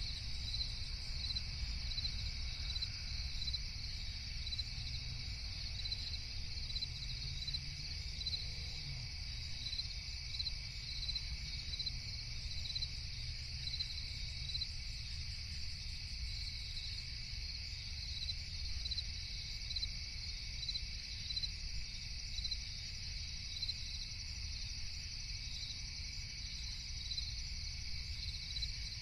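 Night chorus of crickets: a steady, high-pitched trilling with regular pulsing chirps, over a low rumble.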